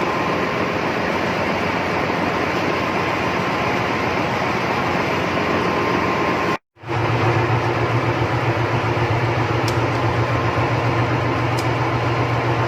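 Steady, loud machinery noise of a ship's machinery space, a dense din with a constant hum running through it. It cuts out for an instant about halfway through and comes back with a stronger low hum.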